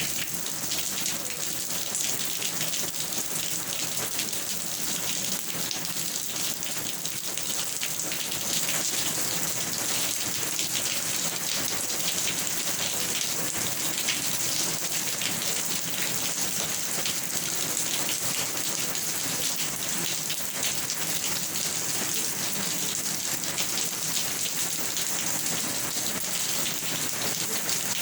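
Steady rain falling, with a dense patter of drops that keeps an even level throughout.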